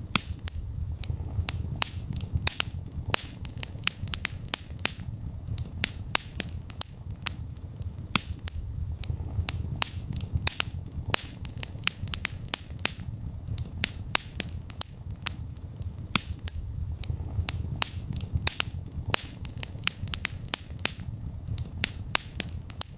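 Wood fire burning in a fireplace, with frequent sharp, irregular crackles and pops over a steady low rumble of the flames.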